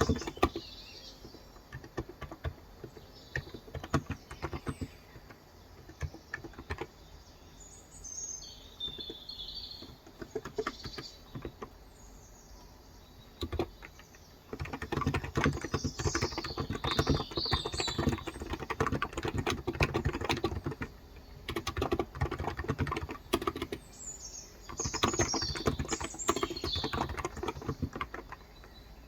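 Typing on a Cox Endeavor electro-capacitive (non-contact) 35 g tenkeyless keyboard: scattered keystrokes at first, then steady runs of fast typing from about halfway, with a short pause before the last run. Birds chirp in the background.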